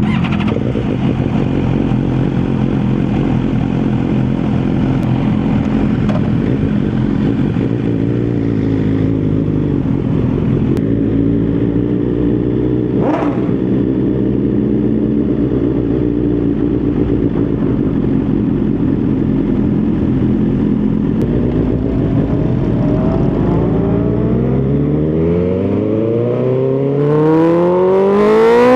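BMW S1000XR inline-four engine through an Akrapovic titanium full exhaust, running at low, fairly steady revs with small rises and falls. Over the last several seconds the revs climb steadily and the exhaust note rises in pitch and gets louder as the bike accelerates.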